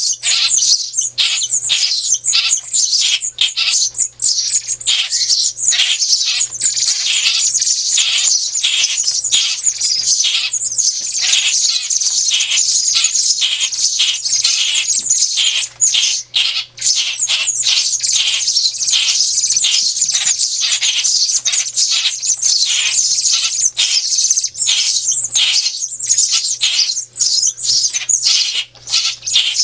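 Baby birds begging to be fed: a dense, continuous stream of rapid high-pitched chirps from many young birds, with brief lulls about halfway and near the end. A low steady hum runs underneath.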